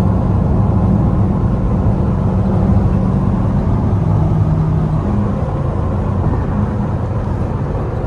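Straight-piped Dodge Durango exhaust heard while driving: a loud, steady engine drone whose pitch shifts down and back up a few times.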